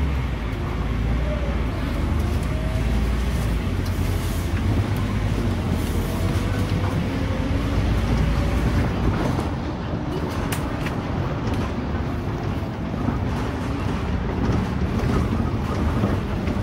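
Scania K310UD bus running at speed, heard from inside the passenger cabin: steady engine and road rumble with a faint whine that rises and falls. The deep low rumble eases about nine seconds in.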